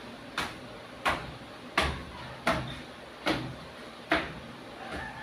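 Six sharp knocks, evenly spaced about 0.7 s apart, each with a dull low thud.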